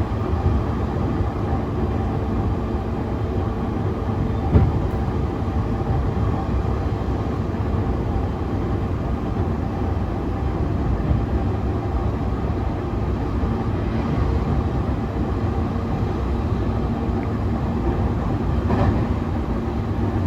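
Interior running noise of a JR East E531 series electric train at steady speed: an even rumble of wheels on rail with a faint steady hum from its Hitachi IGBT-inverter traction motors. A single sharp knock comes about four and a half seconds in.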